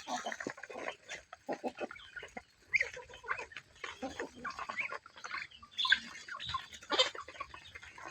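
Farm animals calling in many short, irregular sounds.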